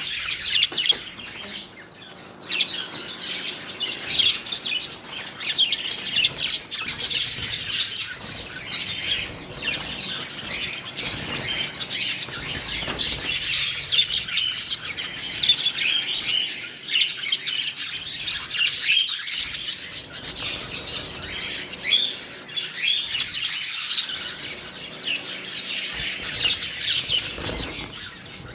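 A flock of pet lovebirds chirping and chattering without pause: many quick, high, overlapping chirps.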